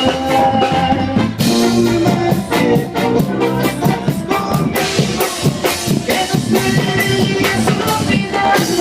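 Mexican regional band playing an instrumental passage with drum kit, guitar and keyboard over a steady beat.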